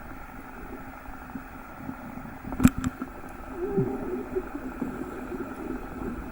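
Steady low motor hum, broken by a sharp knock about two and a half seconds in.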